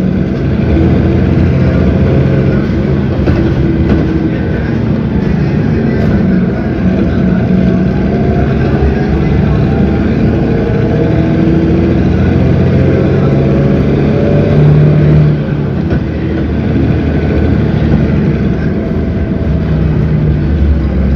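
Cummins ISB 6.7 straight-six turbodiesel of a city bus running under way, its pitch climbing and dropping back several times as the bus accelerates and the automatic transmission changes gear.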